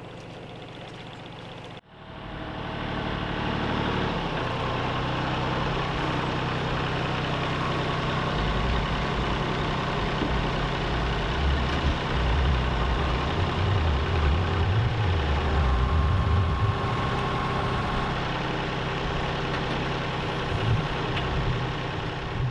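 Tractor engine running steadily, cutting in abruptly about two seconds in, with a deeper low rumble swelling and easing through the middle.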